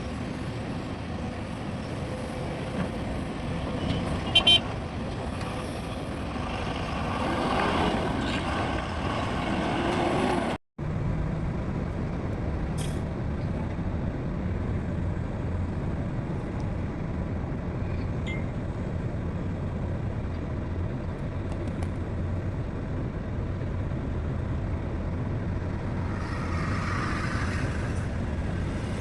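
Diesel engines of heavy earthmoving machinery, excavators and dump trucks, running with a steady low rumble. The sound cuts out for an instant about ten seconds in, and a brief hiss rises near the end.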